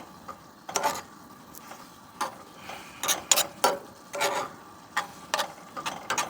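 A utensil scraping and stirring ground beef in a pan as it browns: irregular scrapes and clinks, one or two a second.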